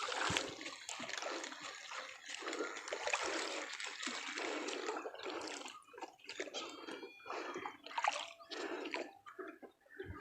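Water splashing and dripping around a small boat, in uneven surges with short pauses.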